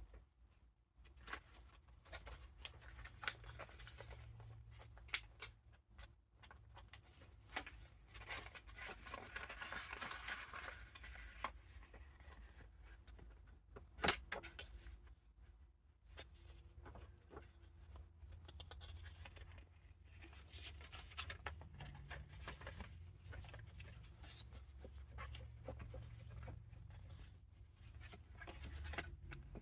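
Paper pages and ephemera of a handmade junk journal being turned and handled: soft rustling and crinkling with scattered taps and clicks, the sharpest click about fourteen seconds in.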